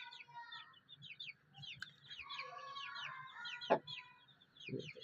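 Aseel chicks peeping over and over in short, falling notes, with the mother hen clucking among them and one louder call a little before the end.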